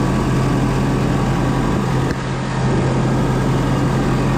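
Tractor engine running steadily close by, pulling a New Holland BC5060 small square baler, with a constant low drone.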